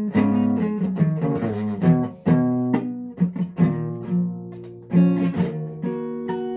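Guitar playing between sung lines: chords strummed and picked, with one chord left ringing and fading a little past the middle before the playing picks up again.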